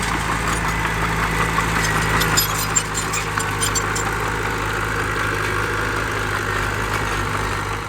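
Heavy diesel engine of earthmoving machinery running steadily at a low, even speed, with a short run of sharp metallic clanks and clicks a couple of seconds in.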